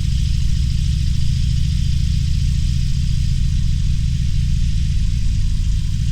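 Harley-Davidson Roadster's air-cooled V-twin engine running steadily at low revs, a constant low throb with an even hiss above it.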